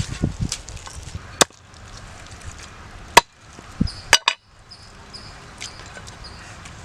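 Raw chicken being chopped with a knife, a few sharp, irregularly spaced chops.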